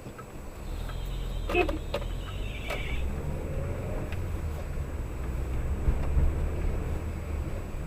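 Car on the move, a steady low engine and road rumble, with a few short knocks between about one and a half and three seconds in.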